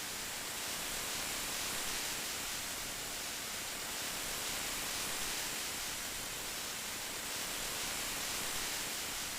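Steady rain, an even hiss with no separate drops or breaks.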